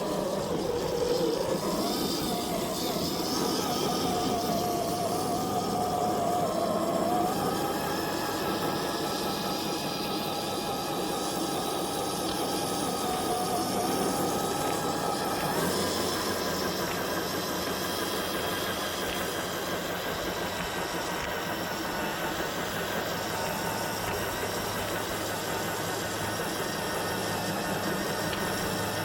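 Electric motor and gearbox of an RC crawler truck whining as it drives, the pitch rising and falling with the throttle in the first half, then steadier.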